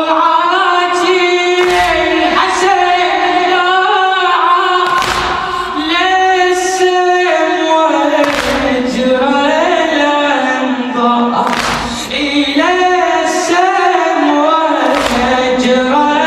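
Shia latmiya mourning chant: several voices singing a drawn-out melody together, with a heavy thump about every second and a half keeping the beat.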